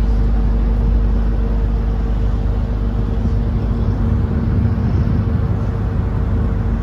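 Car ferry's diesel engines running steadily: a loud, even low rumble with a constant hum.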